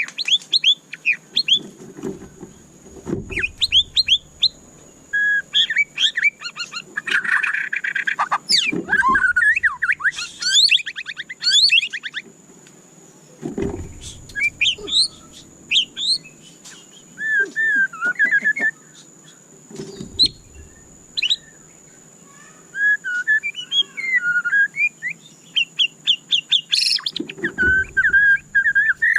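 White-rumped shama (murai batu) singing: a rapid, varied run of whistled phrases, rising and falling trills and sharp chirps, broken by short pauses. A faint steady high whine sits underneath, with a few low thuds.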